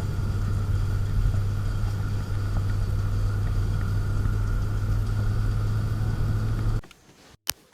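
Steady drone of a car running at an even speed, with a strong low hum. It cuts off suddenly near the end, followed by a brief sharp blip.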